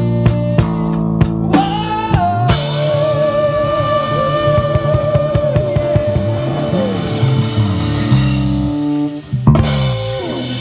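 A small rock band playing live, with electric guitar, bass and drum kit, winding up the end of a song. A long held lead note with vibrato floats over the chords, then a final loud hit near the end rings out.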